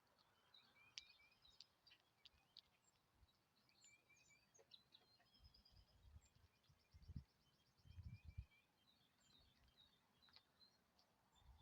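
Faint chirping and twittering of several small birds, with a fast trill about six seconds in. Low rumbling thumps come in around the middle.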